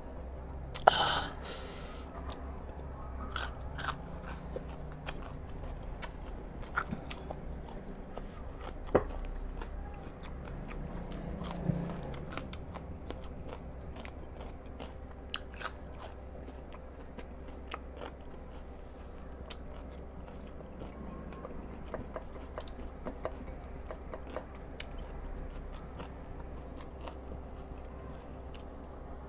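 A person chewing and biting food close to the microphone, with many short, sharp crunches and mouth clicks scattered throughout, over a faint steady hum.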